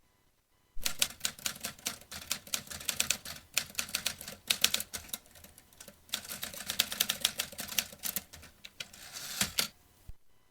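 Vintage manual typewriter being typed on: a fast, uneven run of key strikes that starts about a second in, slackens briefly midway, and stops near the end.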